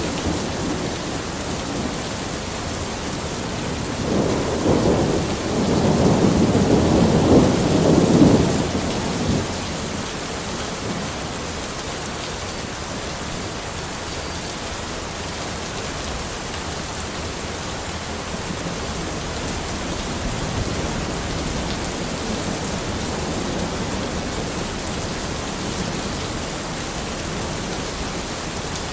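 Steady heavy rain falling in a forest, with a low rumble of thunder rising about four seconds in and rolling off after about five seconds.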